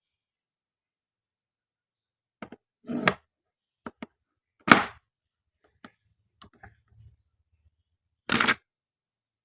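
Toy kitchen pieces being handled on a hard surface: a string of separate clicks, taps and knocks, the loudest about halfway through, then a short scraping burst near the end.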